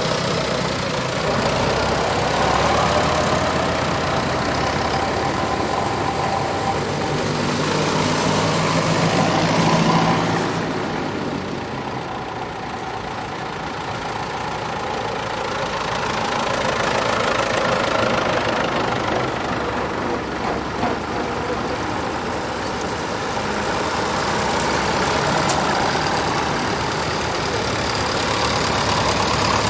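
Tractor engines running as tractors drive past one after another. The sound swells and fades, loudest about ten seconds in and again toward the end.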